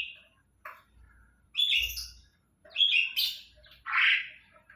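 Songbirds chirping: short, sharp calls about a second apart, with a lower, fuller call near the end.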